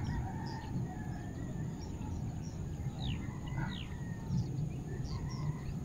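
Birds chirping in the background: a few short downward-sliding chirps about three seconds in, with other brief high calls scattered through. Under them runs a steady low background noise.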